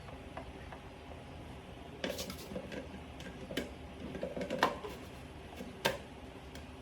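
A scattering of short, sharp clicks and light taps, about a dozen between two and six seconds in, the loudest two near the end, over a faint steady hum.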